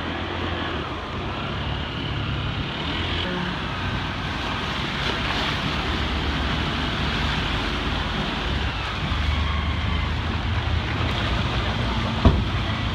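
Motor vehicle engines running in flooded traffic under a steady rushing noise, with a single sharp knock about twelve seconds in.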